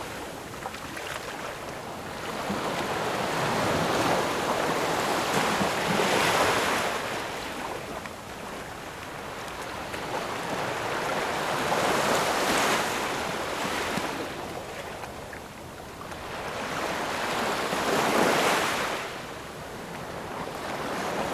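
Ocean surf: waves breaking and washing ashore, each swelling and fading, about every six seconds.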